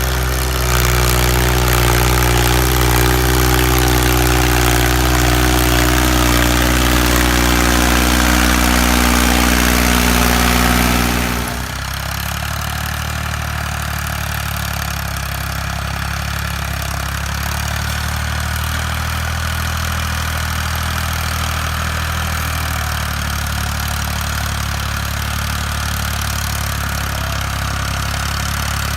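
Tractor engine running steadily at high revs, then dropping abruptly to a quieter, steady low idle about twelve seconds in.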